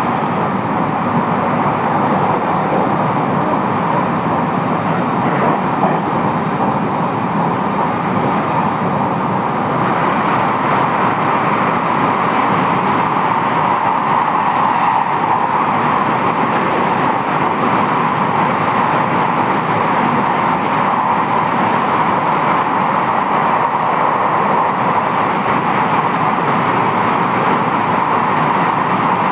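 Running noise heard inside a JR West 223 series 5000 electric train car travelling between stations: a steady rumble and rush of wheels on rails, growing a little louder about ten seconds in.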